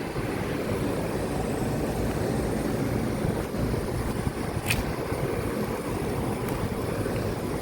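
Several residential outdoor air-conditioner and heat-pump condensing units running together in cooling mode, a steady low whir of condenser fans and compressors. A brief high click sounds a little before the five-second mark.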